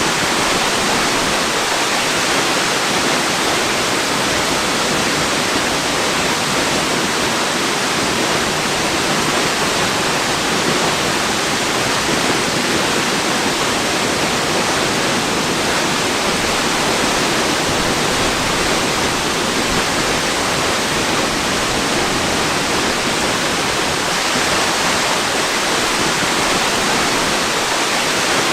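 Waterfall: a steady, unchanging rush of falling water, an even hiss with little deep rumble.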